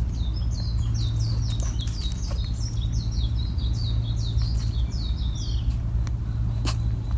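A songbird singing a long, quick run of short, high chirps, each sliding downward, lasting about five and a half seconds, over a steady low hum. A few sharp clicks come near the end.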